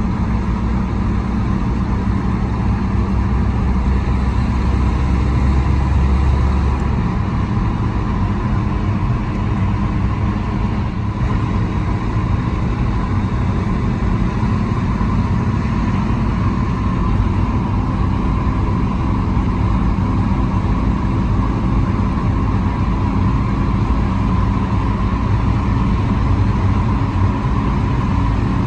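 A car driving on the road: steady engine and tyre noise, with a deep rumble that eases off about seven seconds in.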